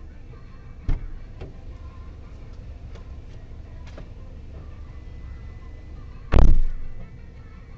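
Steady low vehicle rumble, with a sharp knock about a second in, a softer one just after, and a louder, heavier thump about six seconds in.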